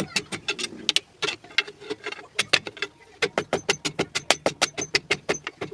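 Rapid series of sharp clicks, about five or six a second, broken by short pauses, over a steady low hum.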